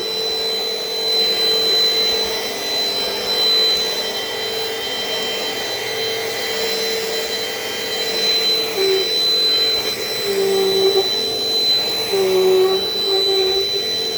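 Upright vacuum cleaner running steadily, its motor giving a high whine over a rushing hum. The tone shifts briefly a few times in the second half.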